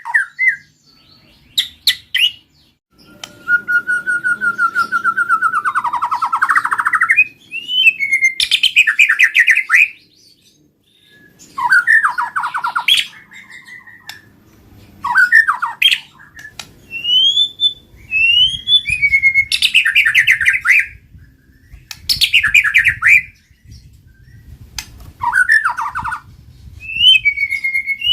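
White-rumped shama singing vigorously in loud phrases of one to four seconds, separated by short pauses. The phrases mix clear whistled notes that slide up and down with fast, buzzy rattling notes.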